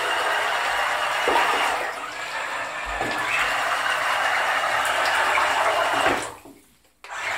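Water churning and splashing from a radio-controlled toy pontoon boat with a Ford F-150 body running through the water. The sound dips briefly about two seconds in and cuts off abruptly near the end.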